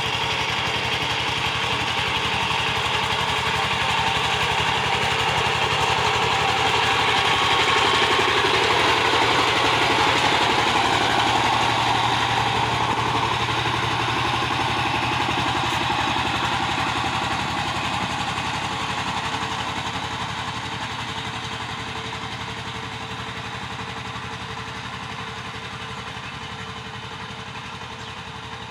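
Power tiller engine running steadily. It grows louder until about a third of the way in, then fades gradually over the last ten seconds.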